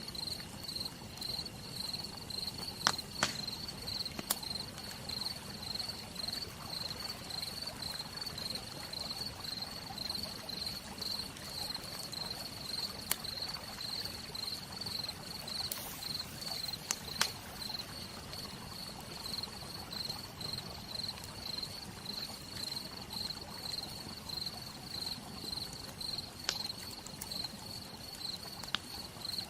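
Campfire crackling with a few sharp, scattered pops, over a cricket chirping in a steady, evenly pulsed high note and a soft even hiss of rain.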